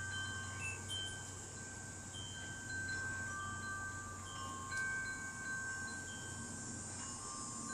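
Wind chimes ringing, several clear tones sounding at different times and ringing on for seconds.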